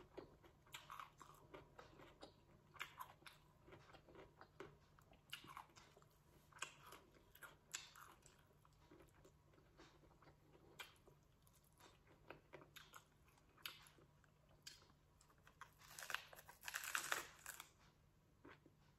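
Faint, close-up chewing and crunching of lettuce-wrap tacos filled with meat, with a louder run of crunchy bites into the crisp lettuce leaf near the end.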